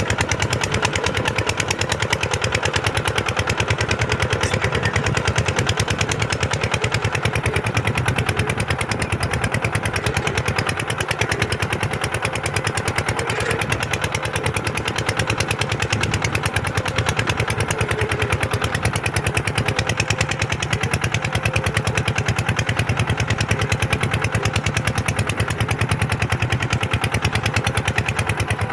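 Kubota tractor engine running steadily with a fast, even beat, holding at a constant level without revving up or down.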